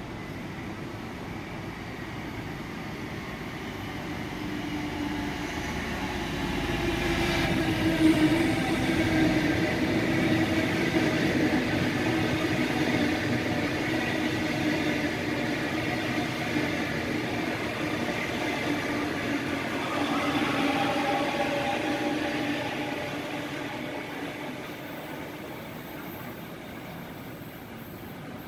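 Double-deck electric suburban train running along the platform: a steady electric whine over wheel-on-rail rumble that builds over several seconds, stays loud with a sharp clack about eight seconds in, and fades away near the end.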